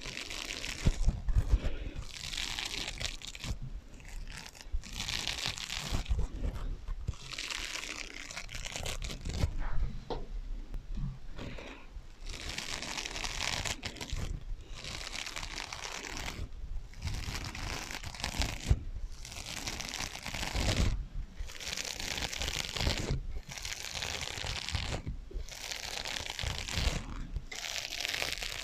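Scratching on sponges, with an echo effect laid over it: a long run of rasping, crunchy strokes, each lasting a second or two with short breaks between them.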